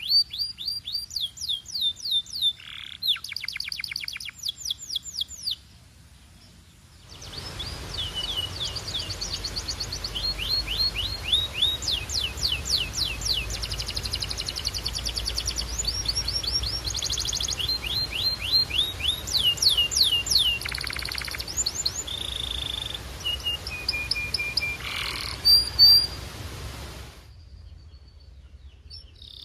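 Canary singing: fast trills of rapidly repeated high sweeping notes, changing from one trill to the next. The song breaks off briefly about six seconds in and resumes over a steady background hiss, then stops near the end.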